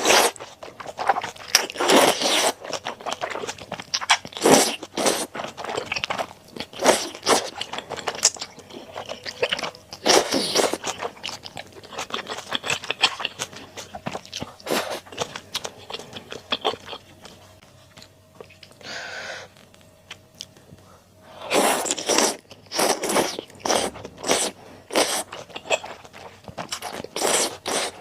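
Close-miked eating: crunchy bites and chewing of a malatang meal, in dense runs of crackly strokes with a quieter stretch in the middle.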